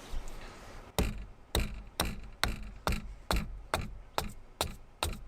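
A freshly sharpened small hatchet striking a piece of wood over and over, taking the bark off. About ten quick, sharp chops come at roughly two a second, starting about a second in.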